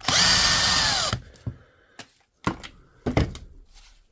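Cordless power screwdriver running for about a second to back out a screw, its whine dropping in pitch as it stops. Then two short knocks as parts are handled.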